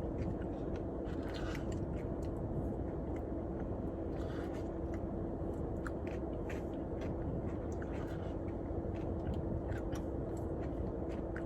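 A person chewing a mouthful of Blizzard ice cream with crunchy chocolate and waffle-cone chunks, with scattered small crunches and clicks over a steady low hum that holds one tone.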